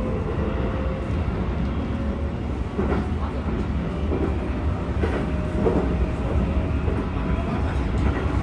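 Keikyu 1000 series train with Toshiba PMSM traction motors running, heard inside the passenger car: a steady low rumble of wheels on rail with a few rail-joint clacks. A faint motor whine fades out in the first second.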